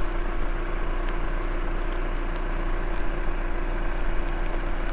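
Car engine idling steadily, a low rumble with a constant hum.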